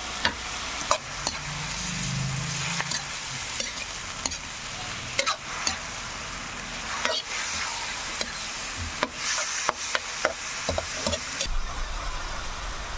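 Pork pieces frying in a pan with soy sauce and other seasonings, sizzling steadily while a spatula stirs them, scraping and clicking irregularly against the pan.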